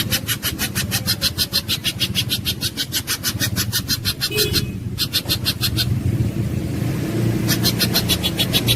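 A pijantung gunung (mountain spiderhunter) calling in a fast run of harsh, evenly spaced notes, about six or seven a second. It stops about four and a half seconds in and starts again near the end. A steady low hum runs underneath.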